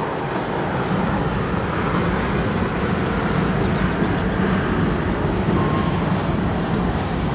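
Freight cars of a mixed freight train (covered hoppers and boxcars) rolling past: a steady rumble of steel wheels on rail that grows a little louder about a second in.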